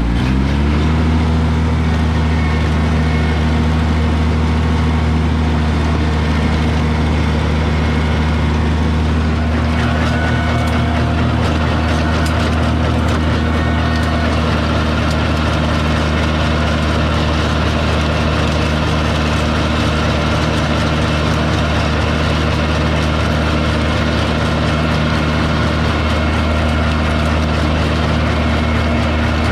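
Kubota BX2200 compact tractor's three-cylinder diesel engine running steadily at working revs while tilling, its pitch climbing as it is throttled up right at the start and then holding even.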